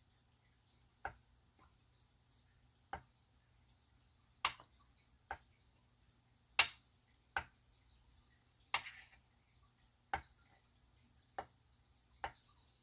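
About ten sharp taps, irregularly spaced roughly a second apart, a few slightly louder with a short ring after them: a small hard object tapping on the work surface.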